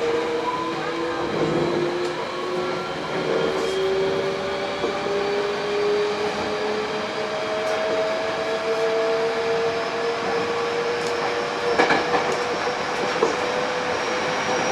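Hankyu 8000 series electric train's Toshiba GTO-VVVF traction inverter, heard from inside the car, singing in several tones that climb slowly in pitch as the train accelerates. Over the running noise, a few wheel clicks come from rail joints near the end.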